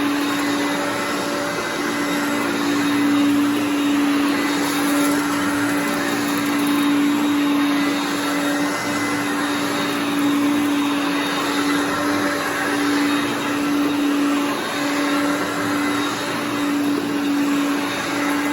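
A 1981 Hoover Concept One upright vacuum cleaner running: a steady motor hum with one strong tone over a rush of air, dipping slightly now and then.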